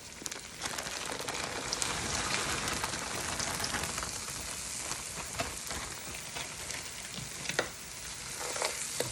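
Mixed vegetables sizzling in melted butter with sautéed onions and garlic as they are added and stirred. The sizzle swells about half a second in, with a few sharp clicks of a utensil against the pan.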